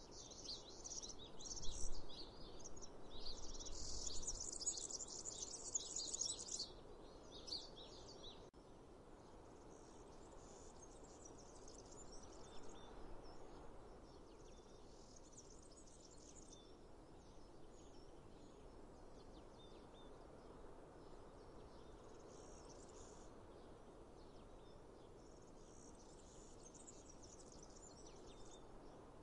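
Birds chirping and singing over a steady, faint outdoor background noise, busy and loudest for the first six seconds or so, then sparser and fainter calls.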